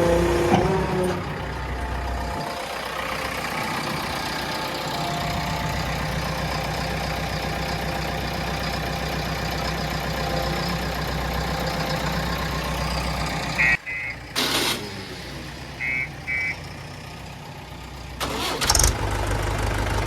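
Heavy diesel engines running steadily, with a strong low rumble. The engine sound stops abruptly about two-thirds of the way through, and in the quieter stretch two pairs of short high beeps and a sharp knock sound before engine noise returns near the end.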